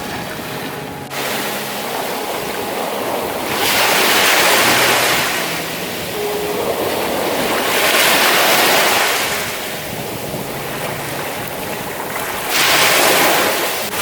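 Ocean waves washing onto a beach, with three louder surges of breaking surf about four seconds apart over a steady wash of water.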